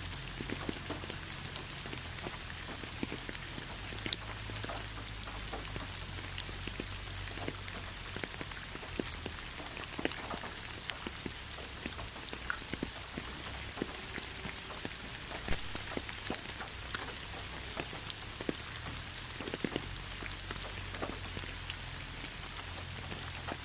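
Steady rain with many separate drops ticking and pattering on a hard surface, over a low steady rumble.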